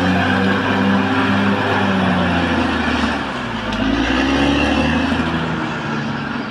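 Caterpillar D6R XL bulldozer's diesel engine running under load; about halfway through the engine note drops and then rises and falls again as the load changes.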